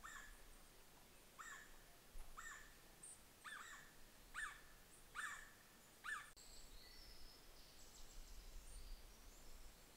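Faint bird calls: a series of short, repeated calls roughly once a second for about six seconds, then thinner, higher whistles.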